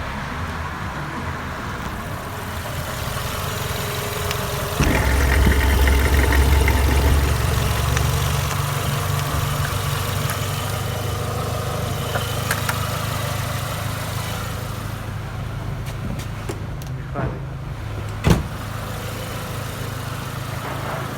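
Renault Megane II's 1.6-litre K4M760 16-valve four-cylinder petrol engine idling. About five seconds in the engine speed and loudness rise suddenly, then ease back to a steady idle over the next few seconds. A sharp knock sounds near the end.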